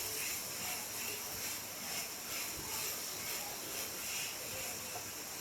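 Spoon stirring a thick mix of cooked banana, coconut and cashews in a pan on the heat, with short scraping strokes in a steady rhythm over a steady hiss.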